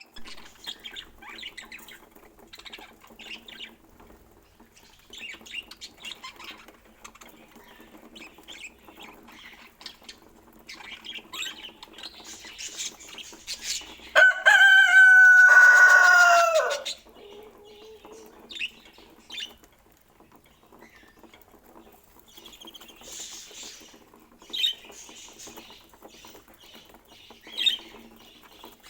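Budgerigars chirping and chattering softly. About halfway through, one loud, drawn-out call lasts about three seconds and falls in pitch at the end.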